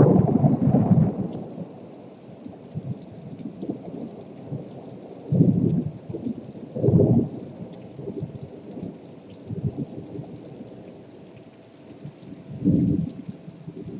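Thunder rolling over steady rain. A loud thunderclap is dying away at the start, and shorter, lower rumbles of thunder come about five and a half, seven and thirteen seconds in.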